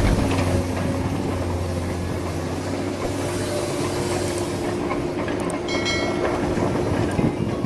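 Vehicle running steadily: a continuous mechanical drone with road or running noise, with a brief high-pitched chirp about six seconds in.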